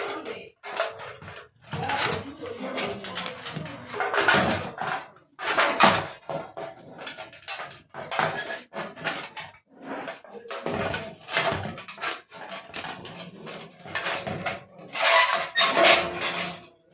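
Metal and plastic parts of an opened electric room heater clattering and clinking as they are handled, in a quick irregular run of knocks and rattles.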